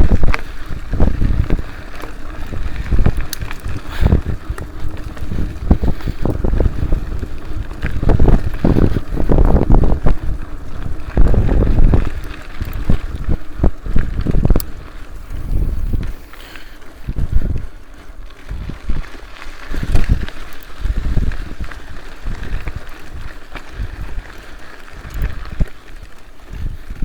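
Wind noise buffeting the microphone in uneven gusts while riding, the rumble surging and easing every second or so.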